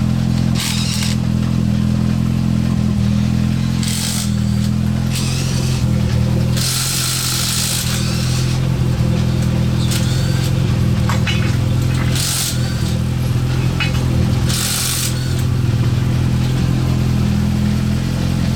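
An engine running steadily at a constant speed, with several separate short bursts of hissing over it.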